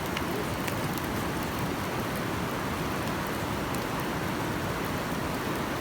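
Campfire of burning firewood: a steady hiss with a few faint crackles.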